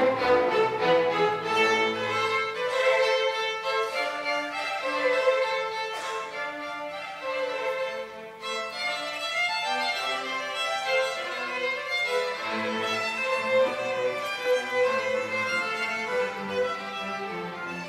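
Violin playing a melody, with lower sustained notes sounding beneath it as accompaniment.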